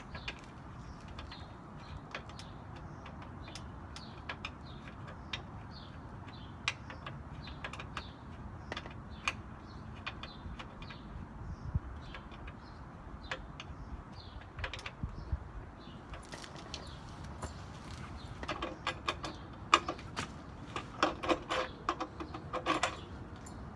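Hand tools working on a minibike: scattered metallic clicks and taps, with a quick run of ringing metal clinks and knocks near the end, as parts are tightened down.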